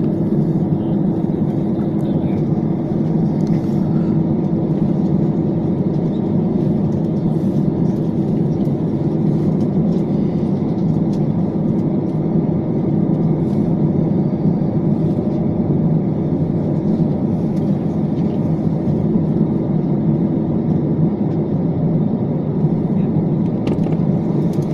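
Steady, loud mechanical drone with a constant hum running through it; the hum fades out about twenty seconds in while the drone carries on.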